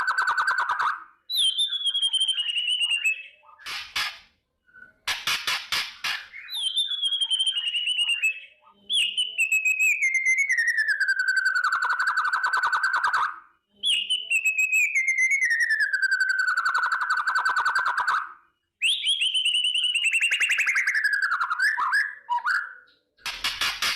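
White-rumped shama (murai batu) giving its harsh 'kretekan' rattle: a string of long, rapidly pulsing buzzy calls, each sliding down in pitch, with short dry clicking rattles between them.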